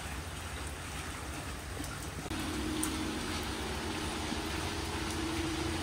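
Steady rain falling, an even hiss with a low rumble under it. About two seconds in a steady low hum joins it and holds.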